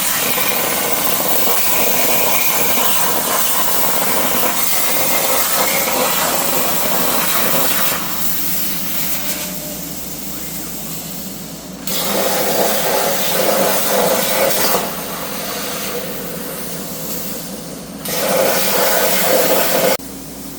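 Everlast 82i plasma cutter on a CNC table cutting steel: a loud, steady hiss of arc and air. It changes level several times as the torch works through the cuts, and drops off near the end.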